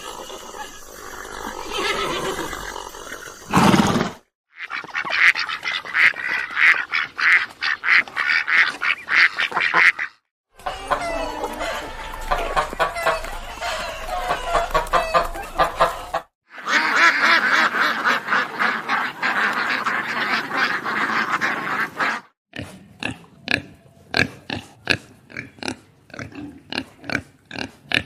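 Farm animal calls in about five short clips separated by brief gaps, mostly rapid chattering calls of poultry, with the last clip made of separate short calls.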